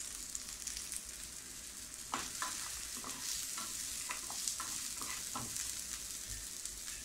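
Shallots and garlic cloves sizzling in hot oil in a non-stick frying pan. From about two seconds in, a wooden spatula stirring them gives a run of short taps and scrapes against the pan.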